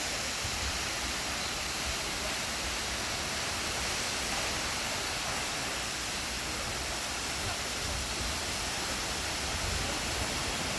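Steady rush of a waterfall, an even wash of falling water that holds one level throughout.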